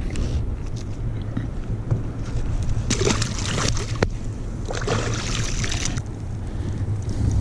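Sea water sloshing and splashing against a kayak, with two longer splashy stretches about three and five seconds in, over a steady low rumble.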